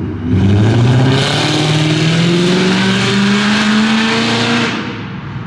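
A car accelerating hard at full throttle, its engine note climbing steadily for about four seconds and then fading as it pulls away.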